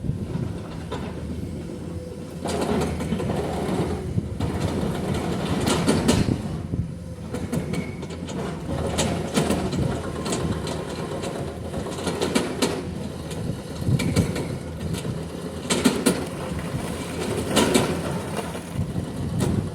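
Hydraulic breaker on an excavator hammering rock in bouts with short pauses, over the excavator's engine running.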